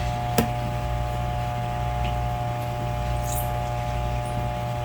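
Steady machine hum with fixed tones, and a single sharp click about half a second in.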